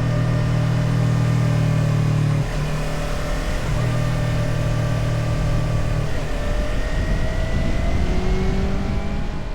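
Motorcycle engine running on the road, with wind rush over it. The engine note breaks briefly about two and a half seconds in, changes again around six seconds, then rises steadily toward the end, as with throttle and gear changes.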